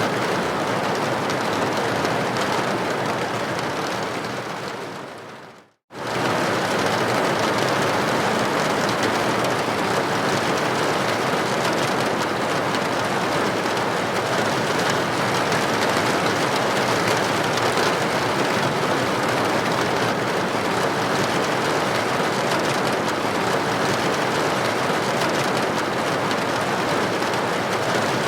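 Steady rain with droplets striking a building window. The sound fades away about four seconds in, cuts to silence for a moment, then returns at full level, as at the seam of a looped recording.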